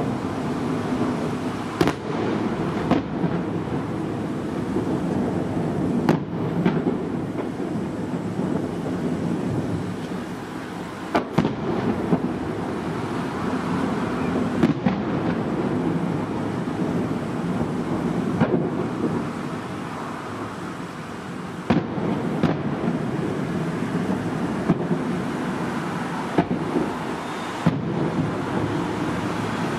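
Aerial fireworks shells bursting, with sharp bangs every few seconds over a continuous rolling rumble. The rumble is the booms reverberating around a bay ringed by hills.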